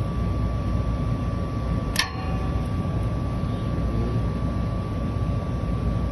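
Steady low rumble and hum of running rooftop machinery, with one sharp metallic clink about two seconds in, briefly ringing, as a wire terminal is worked off the fan-motor capacitor with needle-nose pliers.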